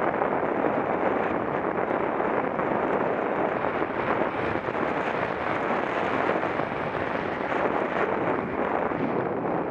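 Wind rushing over the microphone of a bicycle-mounted action camera while riding: a steady, loud rush of noise.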